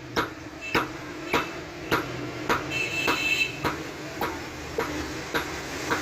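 Blacksmith's hand hammer striking metal on an anvil in a steady rhythm, a blow a little under twice a second, with a brief metallic ring about three seconds in.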